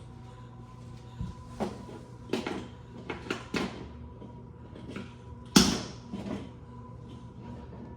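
Hot Wheels monster trucks being handled, giving a string of irregular knocks and clacks with one loud hard knock about five and a half seconds in, over a steady low hum.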